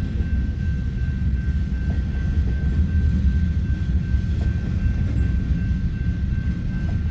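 Freight cars of a mixed freight train rolling past at close range: a steady low rumble of steel wheels on rail, with a thin steady high tone over it.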